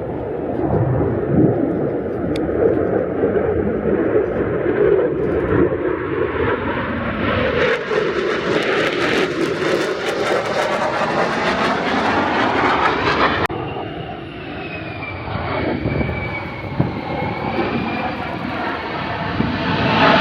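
Jet aircraft flying past at an airshow, a loud wide roar that grows brighter and peaks about ten seconds in. The sound changes abruptly at about thirteen seconds, after which a faint wavering whine sits over the engine noise.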